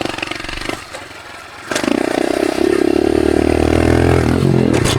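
Dirt bike engine under way in third gear: the engine sound drops back for about a second, a sharp clatter comes about two seconds in, and then the engine runs loud and steady on the throttle. Another short clatter comes near the end.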